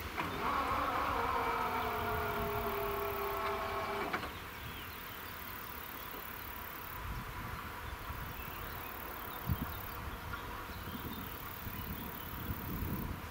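Level crossing warning signal sounding as a chord of steady tones, drifting slightly lower, that cuts off suddenly about four seconds in as the crossing clears after the train. A quieter outdoor background with a faint steady high hum follows.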